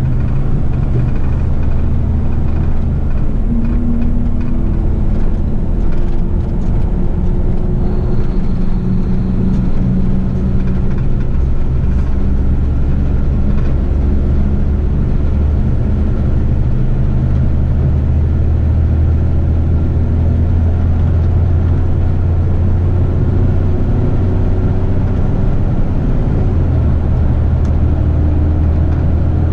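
Heavy rigid truck's diesel engine running on the move, a steady low drone whose pitch drifts slowly up and down as engine speed changes.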